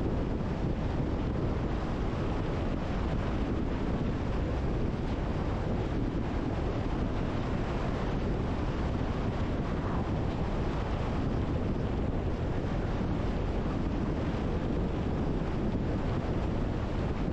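Steady wind and road noise from a car driving along, rushing over the microphone without a break.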